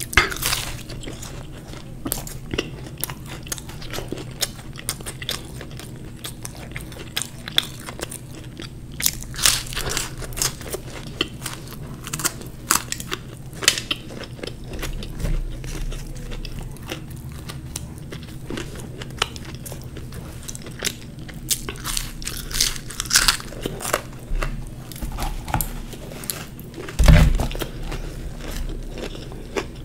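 Close-miked eating sounds of a fried samosa being bitten and chewed: crisp crunches of the pastry crust and wet chewing, with many small clicks and crackles. A low thump about 27 seconds in.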